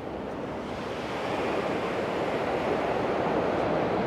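Sea waves washing onto a beach, a steady rush that swells louder about a second in.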